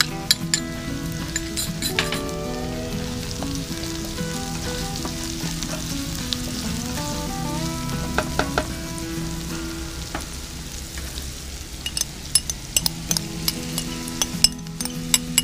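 Diced onion and garlic sizzling in hot oil in a stone-coated nonstick frying pan, with the clicks and scrapes of a spatula stirring against the pan. Near the end a pile of grated carrot is tipped in, with a cluster of sharper clicks.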